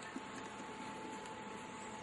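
Steady background hiss with a faint constant hum tone, and one small click just after the start.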